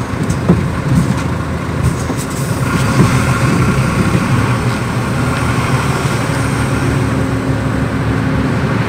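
Truck's diesel engine running steadily, with a few sharp knocks in the first three seconds.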